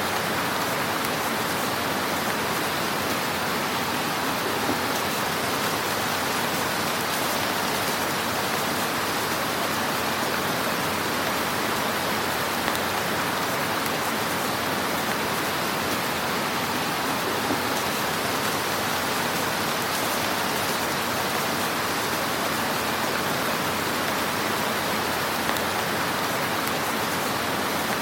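Fire burning in a fireplace: a steady hiss with a few faint crackles.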